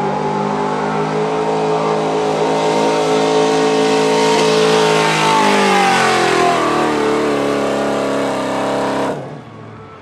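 Street 4x4 pickup truck's engine running hard at high revs while pulling a weight-transfer sled, the pitch sagging from about five seconds in as the sled's load builds. The sound cuts off suddenly about nine seconds in.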